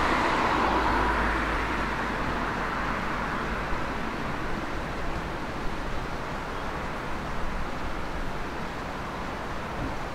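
Steady vehicle noise, loudest in the first second or two and then easing, with a few faint clicks.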